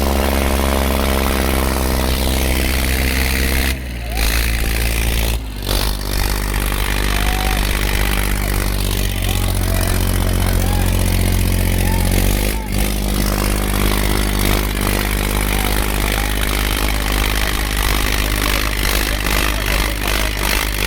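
Tractor engine running at a steady note, with abrupt cuts to a different steady engine sound about four, five and a half and twelve and a half seconds in.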